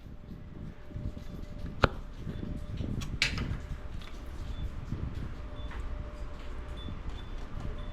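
Two sharp knocks about a second and a half apart, the first short and clicky, the second a duller knock, over a steady low outdoor rumble.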